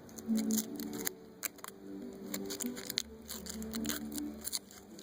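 Foil ring wrapper being torn and crinkled open in the hands: a run of small, sharp crackles. Soft background music plays underneath.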